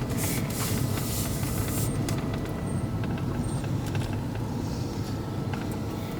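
Car engine and road noise heard from inside the cabin while driving: a steady low rumble with a few faint ticks and rattles.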